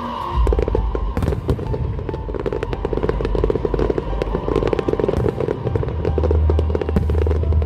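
Fireworks bursting with rapid, dense crackling throughout, over a steady low bass tone that grows stronger in the second half.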